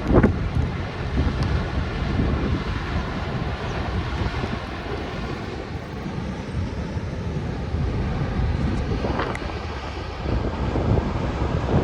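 Steady rushing roar of floodwater, with wind buffeting the microphone in gusts.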